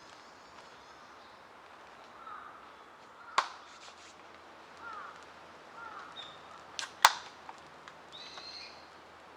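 Two sharp cracks about three and a half seconds apart, the second the louder, among a few faint clicks and short chirping calls.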